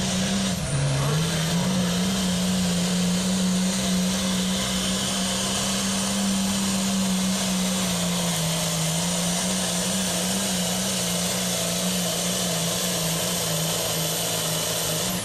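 Altered stock pulling tractor's diesel engine running hard at high revs under load down the track. The pitch holds steady apart from a brief dip about a second in and a slight sag around eight seconds.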